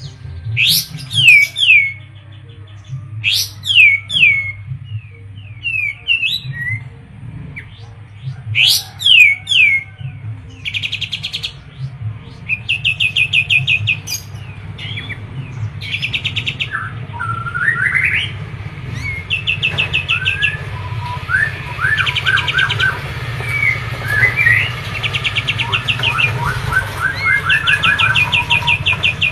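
Sooty-headed bulbul (kapas tembak) singing. Loud, steeply falling whistled notes come several times in the first ten seconds, then rapid rattling runs of repeated notes mixed with short rising phrases. A steady low hum sits underneath.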